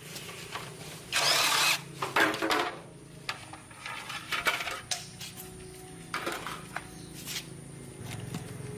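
Metal tools and motorcycle parts clinking and knocking during hands-on repair work, with a short scrape about a second in and a steady low hum underneath.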